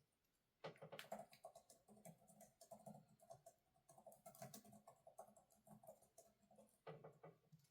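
Faint typing on a computer keyboard: a quick, irregular run of key clicks that starts just under a second in and stops near the end.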